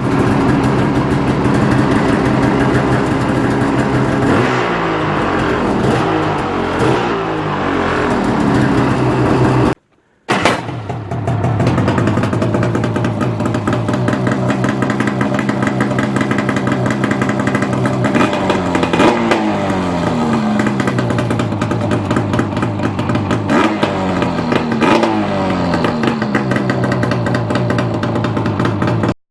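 Arctic Cat M8000 snowmobile's two-stroke twin running through a Black Diamond Extreme aftermarket exhaust can on the stock pipe. It idles steadily and is blipped in several quick revs that rise and fall, in clusters. The sound cuts out briefly about ten seconds in.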